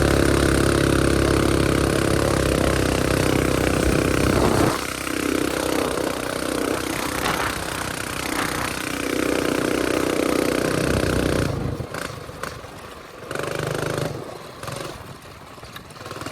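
Small mini bike engine running, steady and loud at first, then dropping in speed about four and a half seconds in. It revs up and down, picks up again, and falls off and sputters unevenly over the last few seconds.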